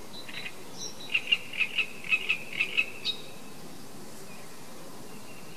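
A bird calling in a quick run of about nine short, high chirps lasting about two seconds, then stopping.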